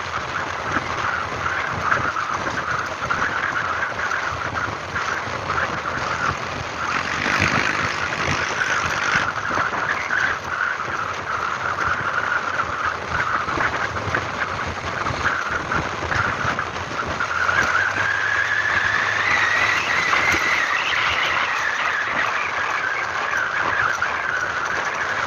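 A vehicle driving along a road with a steady running noise. From about 17 seconds in, a whine rises in pitch and then eases back.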